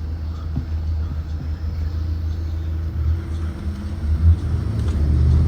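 2023 Blue Bird Vision propane school bus running with a steady low rumble, with a single thump about four seconds in.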